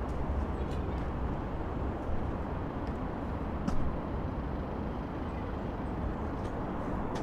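Steady low rumble of heavy traffic on a busy multi-lane city avenue, with a few faint short clicks, one sharper than the rest a little over halfway.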